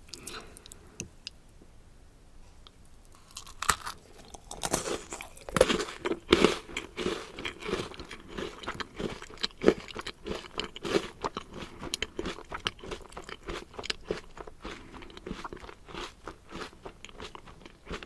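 Close-miked eating of a crunchy food: a few soft clicks at first, then from about three and a half seconds in a dense run of crisp bites and crunching chews.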